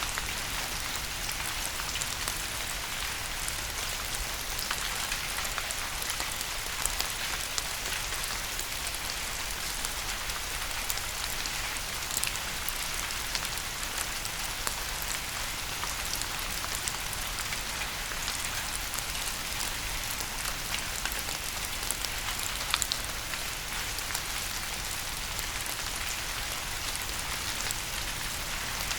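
Steady rain falling, an even hiss of rain with many small, sharp drop ticks scattered through it and a few louder ones.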